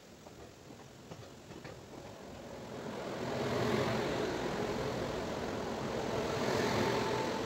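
An Indian Railways electric locomotive passing close on the adjacent track: its running noise and wheel rumble swell from about two seconds in to a steady loud rush. A few faint clicks come before it.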